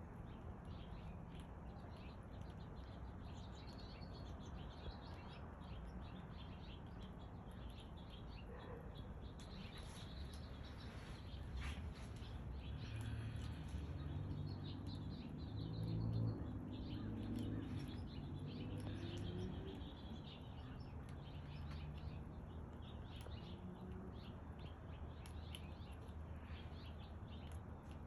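A squirrel eating: many small crunching clicks of chewing and gnawing, a little louder in the middle, over a steady low hum.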